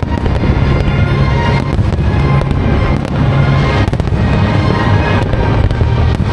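Fireworks display: shells bursting in quick, irregular succession over loud music played for the show.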